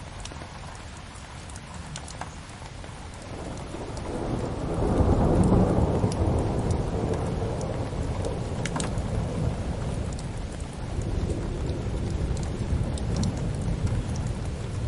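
Steady rain with a low rumble that swells about four seconds in and slowly eases, over scattered sharp crackles from a wood fire.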